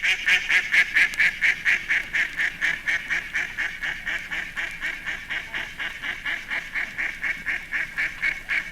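Mallard quacking in a rapid, even run of quacks, about five a second, slowly fading.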